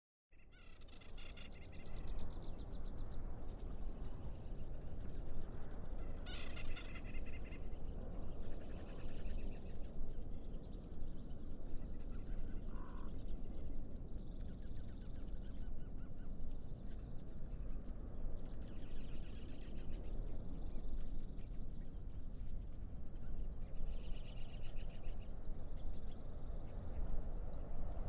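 Birds singing: a series of short, rapid trilled phrases, each about a second long, repeating every second or two over a steady low rumble.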